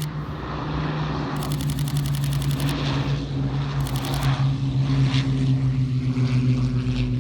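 Steady drone of a piston-engined propeller aircraft, growing gradually louder. Over it, a DSLR camera shutter fires in rapid bursts: a longer burst about a second and a half in and a short one about four seconds in.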